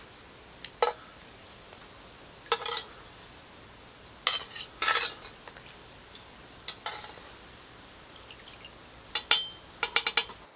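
Scattered short clinks and scrapes of cutlery and dishes, a quick run of several clinks near the end.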